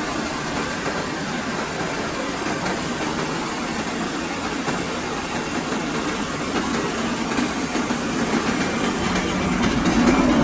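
Gasoline engine driving a combined rice mill (rice whitener and flour grinder), running steadily and growing a little louder near the end.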